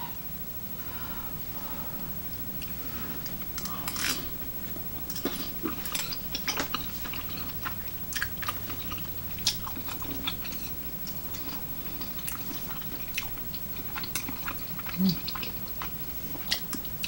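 Close-miked chewing of chewy tteokbokki rice cakes in spicy sauce: irregular wet mouth clicks and smacks, over a steady low hum.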